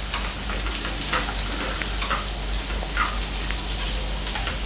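Chopped onions, garlic and ginger sizzling in hot coconut oil in a frying pan. A spatula stirs them, scraping across the pan about once a second.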